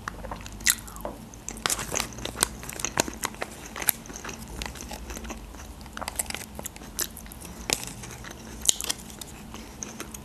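A person eating close to the microphone: chewing and biting, with many short, sharp wet mouth clicks scattered throughout.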